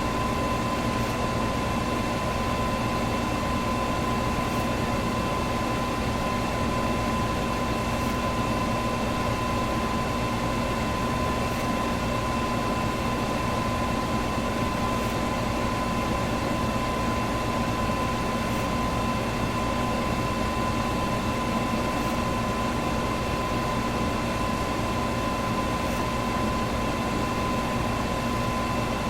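Electric fan running steadily: an even rushing of air with a constant hum and a thin steady whine. A very faint tick recurs about every three and a half seconds.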